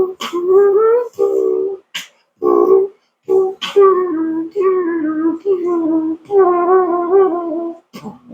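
Beatbox-style vocal sounds: a string of short, wavering pitched "boop" notes, the last few running longer, with a few sharp clicks in between.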